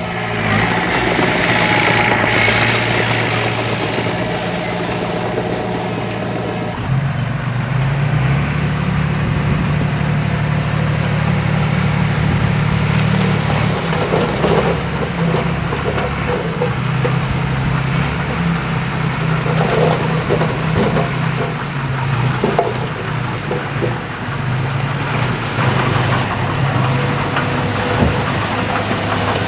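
Diesel engine of a heavy construction machine running steadily; its note shifts about seven seconds in.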